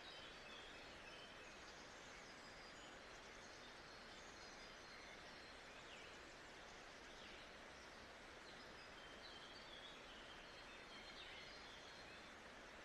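Faint nature ambience: a steady hiss of background noise with many short, high bird chirps and whistles scattered throughout.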